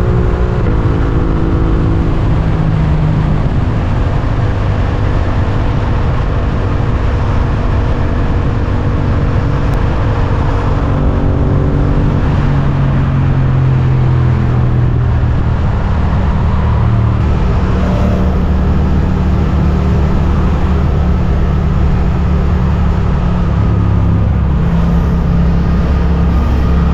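Suzuki GSX-8S 776 cc parallel-twin engine running under way, heard from the rider's position with steady wind and road noise. The engine note drops in pitch about a second in and changes again around the middle.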